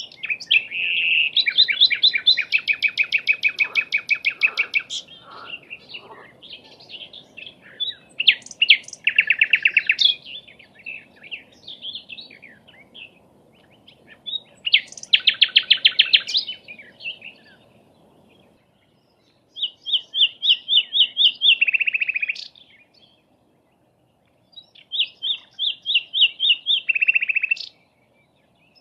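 Sikatan londo flycatcher singing: five phrases of fast, rapidly repeated trilled notes, each lasting a couple of seconds, with pauses between them. A faint steady hiss lies under the first two-thirds and then stops.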